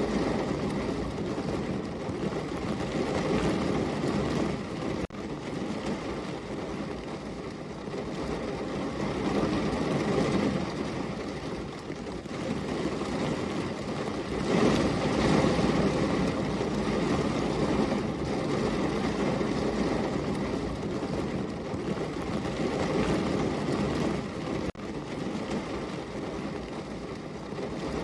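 Steady heavy rain: a dense, even rush of noise that swells louder about halfway through.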